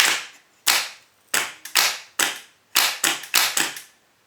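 Starter motor solenoid snapping in with about ten sharp, irregular clicks while the starter motor itself does not spin. The solenoid works, but the motor does not turn, which the owner puts down to bad solenoid contacts or dirty, worn brushes.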